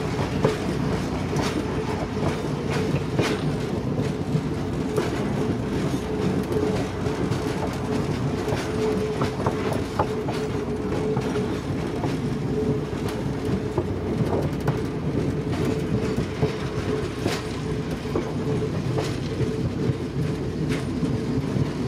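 Passenger railroad car rolling along the track, its wheels clicking irregularly over the rails over a steady rumble, with a steady hum running through it, heard from the open rear platform.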